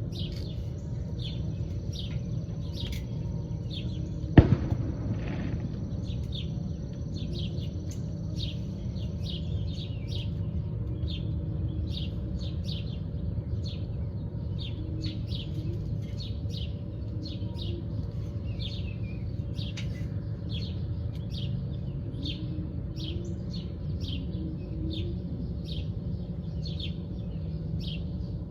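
Small songbirds chirping over and over, short high chirps throughout, over a steady low background rumble. A single sharp knock about four seconds in is the loudest sound.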